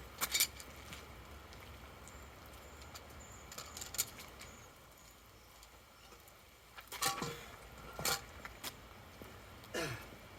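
Scattered clinks and scrapes of gravel and metal as debris is cleared from a clogged storm drain, with two longer scrapes about 7 and 10 seconds in that fall in pitch.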